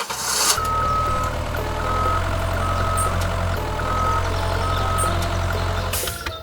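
Vehicle reversing alarm beeping about five times, roughly once a second, over a low, steady engine running.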